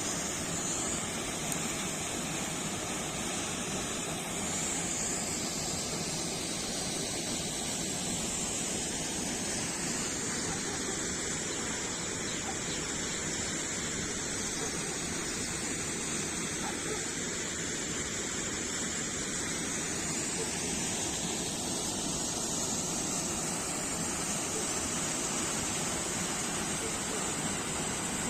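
Steady rush of falling water, an even hiss with no let-up.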